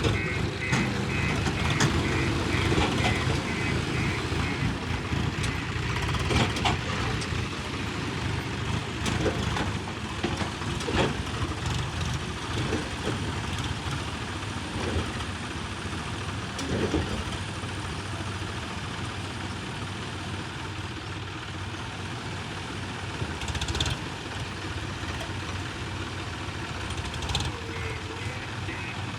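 Diesel engine of earthmoving machinery running steadily, with scattered knocks and clunks. A reversing alarm beeps in a quick repeated series right at the start and again near the end.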